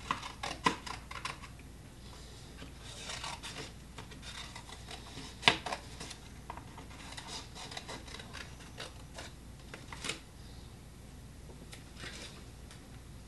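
Short hisses from an aerosol spray-paint can sprayed in brief bursts, mixed with scattered clicks and taps of handling art materials; the sharpest click comes about halfway through.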